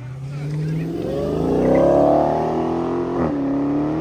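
A car accelerating hard past, its engine note rising and growing louder, then dropping at a gear change about three seconds in before climbing again.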